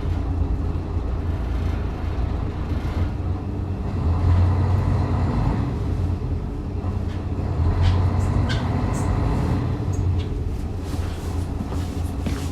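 Diesel railcar running, heard from inside the car: a steady low engine drone with wheel and rail noise, swelling about four seconds in and again around eight seconds, with a few sharp clicks near the end.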